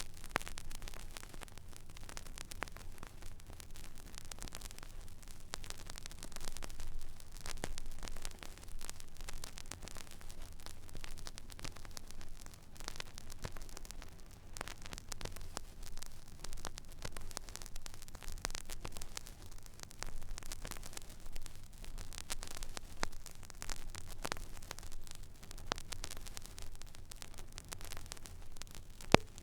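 Stylus riding an empty, silent vinyl record groove: steady surface hiss and low hum with scattered crackles and pops. A sharper, louder pop comes near the end.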